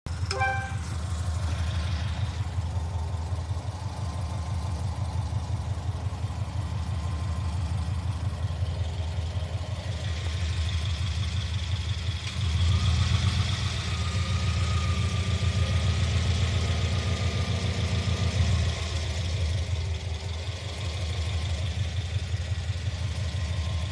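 Subaru EJ20 flat-four idling through an aftermarket exhaust (2.25-inch pipes, aftermarket headers, muffler and high-flow catalytic converter), on a cold first start after a night outside. About halfway through the engine speed goes up for about six seconds, then drops back to idle.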